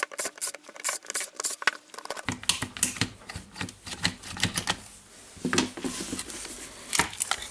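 Irregular light clicks and taps of small plastic and metal parts being handled as a cordless impact driver is opened up to get at its motor, thickest in the first two seconds and sparser after.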